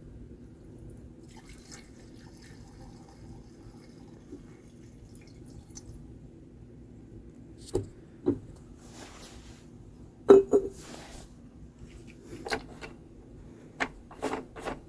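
Gasoline being poured back into a lawnmower's fuel tank: faint trickling and splashing of liquid, with a few short knocks and clicks from about eight seconds in, the loudest near ten seconds.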